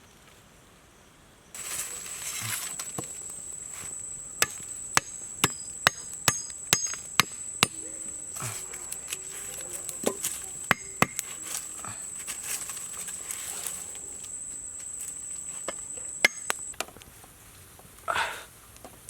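Chopping with a blade on a hard surface: sharp, irregular strikes, sometimes several a second. Behind them runs a steady, high insect drone that starts suddenly about a second and a half in and stops near the end.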